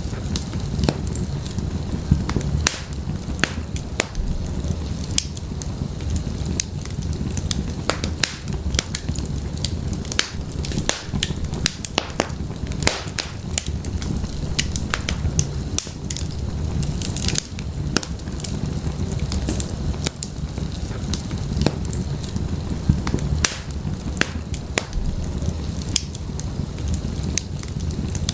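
Wood fire burning in a fireplace, with frequent irregular sharp crackles and pops from the burning firewood over a steady low rumble of the flames.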